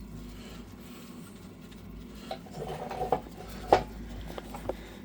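A few light clicks and knocks of handling noise, the sharpest about three-quarters of the way in, over a steady low hum.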